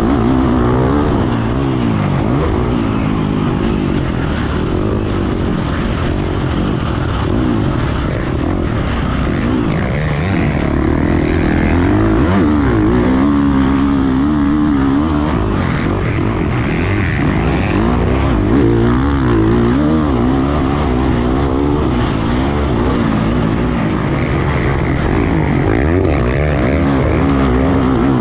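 Motocross dirt bike engine heard on board, revving up and falling back again and again as the bike is ridden around the track.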